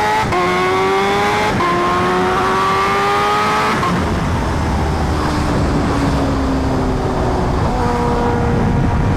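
Kawasaki Ninja H2R's supercharged inline-four accelerating hard, its pitch rising and stepping back down twice in the first couple of seconds as it shifts up. About four seconds in the throttle closes and the engine drops to a lower, slowly falling note as the bike slows, with wind rushing on the microphone.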